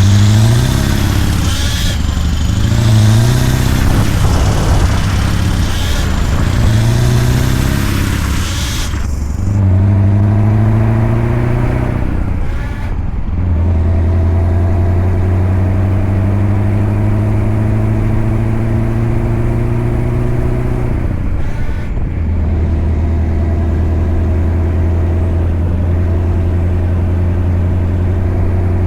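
Scania V8 diesel truck engine pulling through the gears: revs climb and drop several times in the first nine seconds under a high whistle and hiss, then climb slowly in one long pull, break briefly for a shift a little after twenty seconds, and run steady.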